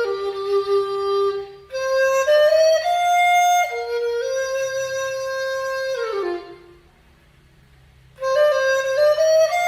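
B-flat dizi, a Chinese bamboo transverse flute of trúc vừng bamboo, playing a solo melody. A short phrase is followed by a longer one whose held note slides down in pitch about six seconds in, then after a pause of about a second and a half a new phrase begins.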